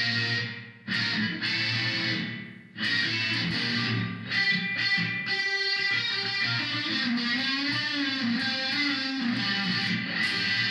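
Electric guitar played through a Korg A5 multi-effects processor set to its echo-verb reverb. Chords are struck and break off briefly twice in the first three seconds, then ring on, with notes bent in pitch in the second half.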